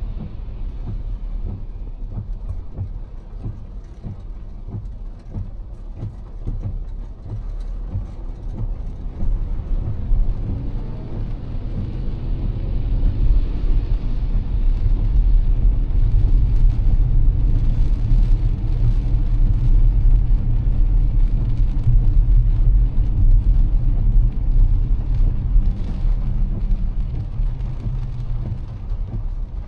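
Car driving on a wet road in heavy rain, heard from inside: a steady low rumble of road and engine noise with a faint hiss above it. The rumble grows louder from about halfway through, then eases near the end.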